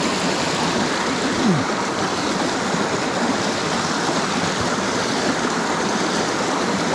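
Mountain stream water rushing and splashing over rocks, a steady even sound.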